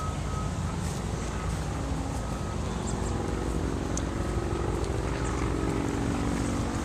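Steady low engine drone, with a pitched hum that comes in about two and a half seconds in and holds to near the end.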